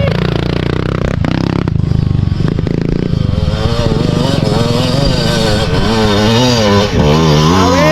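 Dirt bike engine running under load, its revs rising and falling over and over as the throttle is worked, with a few sharp knocks about one and two seconds in.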